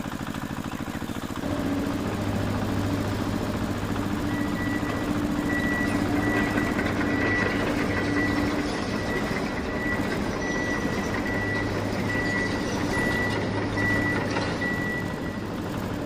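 A motor running steadily with a low hum. From about four seconds in, a high, evenly repeated beeping like a reversing alarm sounds over it, stopping shortly before the end.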